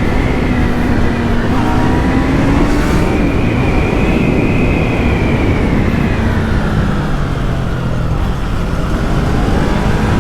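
Yamaha MT-03's 321 cc parallel-twin engine with its stock exhaust, pulling under way over heavy wind rush. The revs climb over the first few seconds, fall away, then rise again near the end.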